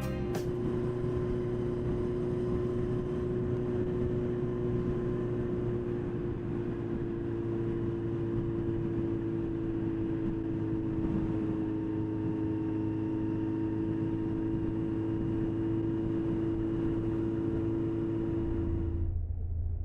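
Motorcycle engine running at a steady note while riding, with wind and road noise over it. About a second before the end, the higher sound and the main engine note drop away, leaving a low hum.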